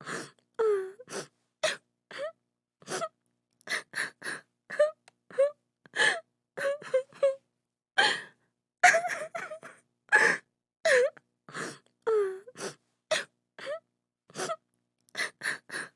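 A woman sobbing hard: a quick string of short gasping sobs and brief wailing cries that dip and rise in pitch, with silent gaps between them.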